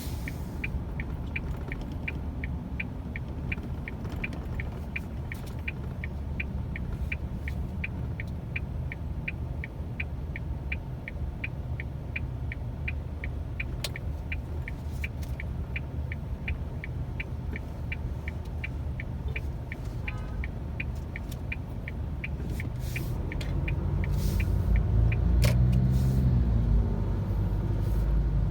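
Car driving in city traffic: steady engine and road rumble with a turn-signal indicator ticking about two to three times a second. Near the end the rumble grows louder as the car speeds up or traffic passes close.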